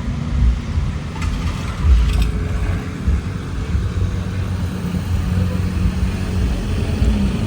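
Opel Corsa B car engine running steadily, its sound mostly low-pitched, with a few light clicks about a second or two in.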